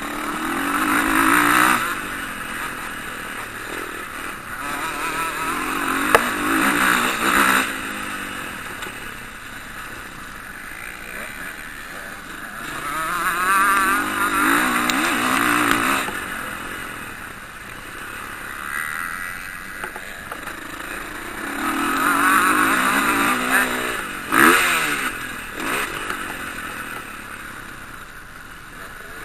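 Motocross bike engines revving hard and fading as the bikes pass, rising and falling in waves every several seconds, with a couple of sharp snaps.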